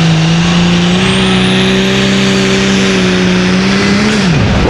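Pulling tractor's engine at full throttle, a loud steady drone that steps up slightly in pitch about a second in and holds, then falls away sharply near the end as the throttle is cut.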